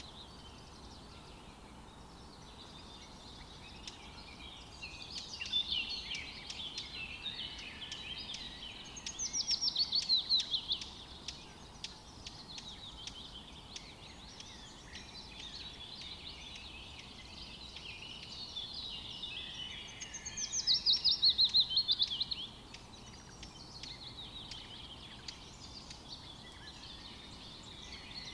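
Several wild birds singing and calling in a forest. A louder song of rapid notes falling in pitch comes twice, each lasting about two seconds, once near the middle and again later, over a faint steady background hiss.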